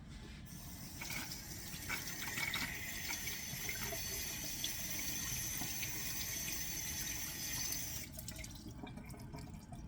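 Kitchen tap running with water splashing over capers being rinsed to wash off their salt; it starts just after the beginning and is shut off about eight seconds in.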